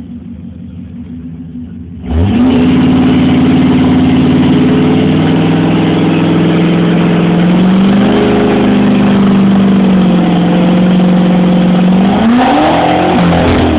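2003 Ford F-250 pickup engine running low, then revved hard about two seconds in and held at high revs, dipping and climbing again as the truck spins its tyres in mud to back out.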